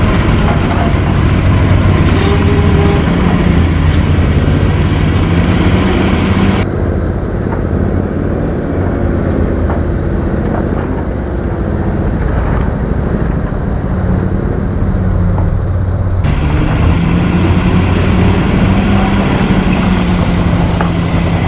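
Heavy diesel engine of earthmoving machinery running hard, its pitch rising and falling as the revs change. The sound goes duller and muffled from about seven seconds in until near sixteen seconds, then comes back brighter.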